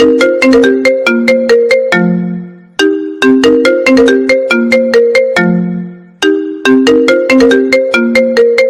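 iPhone ringtone playing: a short, bright melody of struck, bell-like notes that loops about every three and a half seconds, each pass ending on a low note that fades before the phrase starts over.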